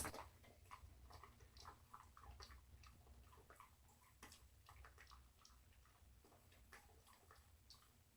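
Faint, irregular clicks and crunches of a dog chewing the last bits of a bone treat.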